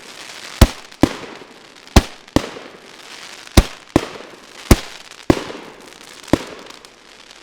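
JF C30-49/06 'Yalta' fireworks battery firing: about nine sharp bangs, half a second to a second apart, with crackle between them. The last comes just over six seconds in and then fades as the battery finishes.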